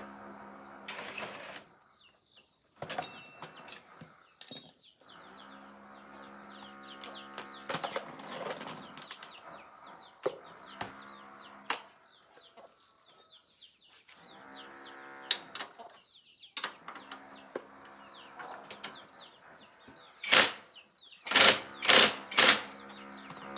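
Metal clicks and knocks of hand tools at work on a motorcycle's rear brake, scattered and irregular, with a run of louder sharp knocks near the end. Small birds chirp, and a low hum comes and goes.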